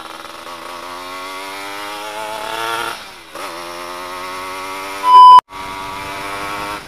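Yamaha F1ZR's 110cc two-stroke single engine revving through an exhaust with its baffle insert removed: the pitch climbs for about three seconds, drops off, then runs steadily. A brief, very loud high beep cuts in about five seconds in.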